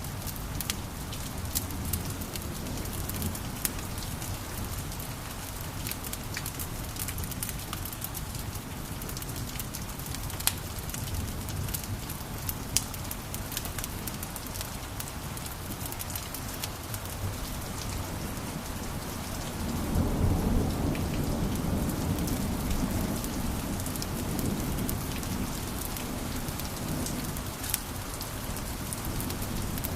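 Wood fire crackling in a fireplace, with frequent sharp pops over a steady hiss. A low rumble swells about two-thirds of the way through.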